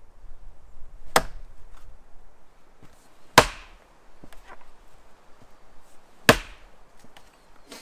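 Axe strikes into wood, three blows about two to three seconds apart, the second and third the loudest.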